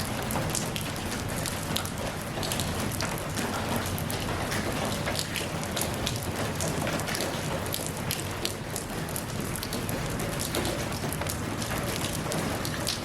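Steady rain falling, a dense hiss of drops with many sharp individual drops striking close by.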